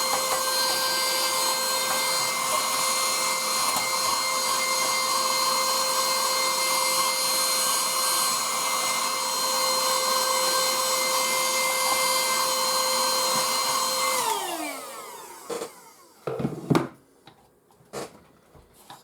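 An electric dust-cleaning appliance's motor running with a steady whine, then switched off about fourteen seconds in, its pitch falling as it spins down. A few knocks and clicks follow.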